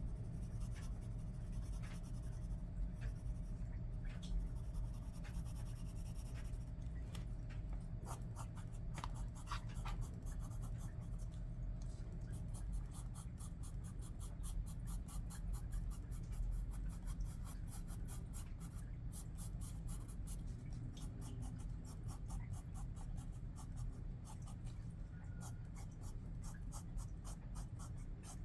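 Pencil scratching on paper in quick, short strokes, as in hatching or shading. The strokes grow dense and rapid about a third of the way in, over a steady low hum.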